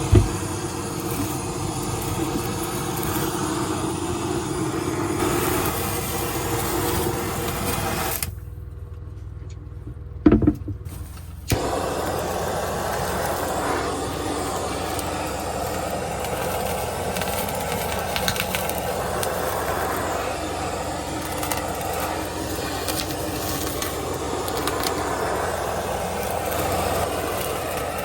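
Steady vehicle and street noise. It is broken by a quieter stretch of about three seconds a third of the way in, with a single knock in the middle of it.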